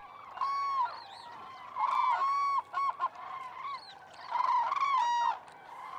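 Birds calling from a flock: bouts of short, clear, pitched calls, several overlapping, repeating every second or so.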